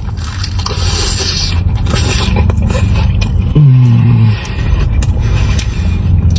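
Scraping and rustling of mozzarella sticks being dipped in ranch and eaten, over a steady low rumble, with a brief low hummed 'mmm' about three and a half seconds in.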